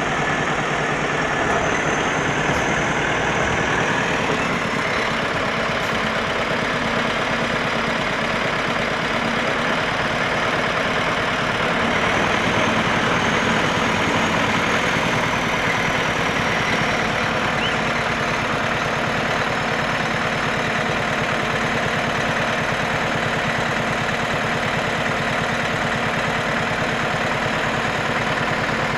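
KAMAZ logging truck's diesel engine running steadily, with a faint high whine that rises and eases twice.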